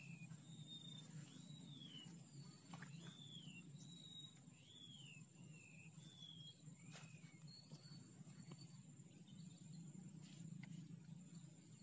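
A bird faintly repeating a short arched whistle, about six times, one every second and a half or so, over a steady high-pitched whine and a low rumble of outdoor ambience.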